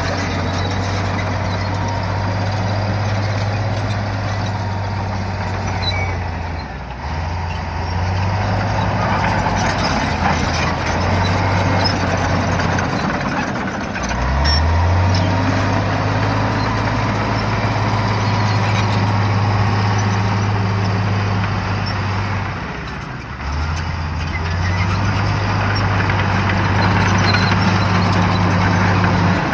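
Shantui bulldozer's diesel engine running under load with broad mechanical noise over it. The engine note sags and climbs back up a few times as the throttle and load change.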